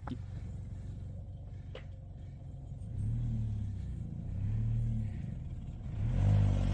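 Car engine running low, revved gently three times in short swells as the car is manoeuvred slowly into place.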